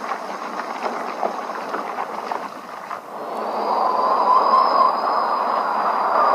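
Whooshing, wind-like rushing noise made as the storm wind for a homemade animation. About three seconds in it grows louder and takes on a wavering whistle.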